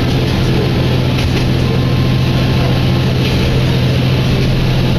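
Cabin noise inside an Isumi Railway diesel railcar: the engine's steady low drone under an even rumble.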